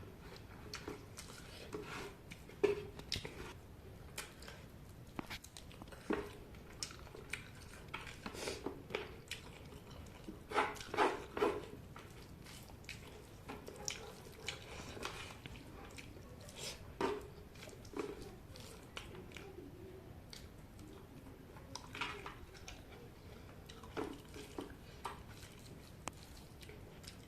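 Close-up eating sounds: chewing and biting into cooked chicken in gravy, with wet smacks and small irregular clicks. There is a louder run of chewing about eleven seconds in.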